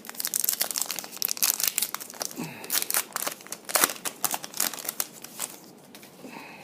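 Foil trading-card pack wrapper crinkling and tearing as it is ripped open and handled, a dense crackle for the first five seconds or so, then thinning out.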